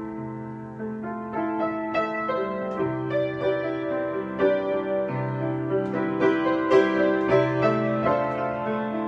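Piano improvisation: long-held low bass notes under slowly changing chords and a melody line, growing busier about halfway through.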